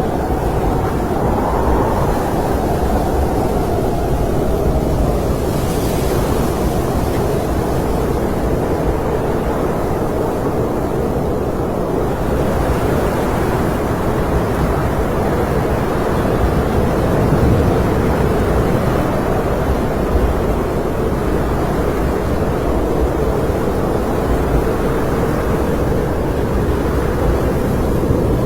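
Snowstorm wind blowing steadily, a deep rushing noise with a faint howling tone that wavers in pitch.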